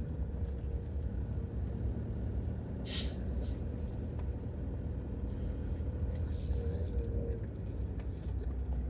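Campervan driving, heard from inside the cab: a steady low engine and road rumble, with a short hiss about three seconds in and a fainter one near seven seconds.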